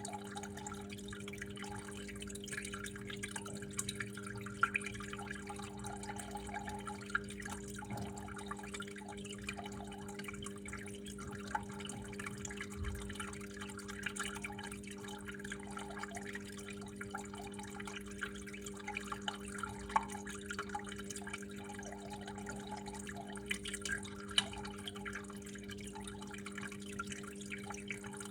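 Water dripping and trickling, with irregular splashy drops, over a steady low hum.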